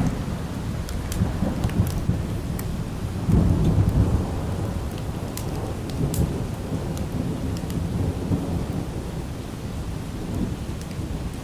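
Light rain falling steadily under low rolling thunder, which swells most strongly about three to four seconds in. Scattered sharp ticks are heard over it.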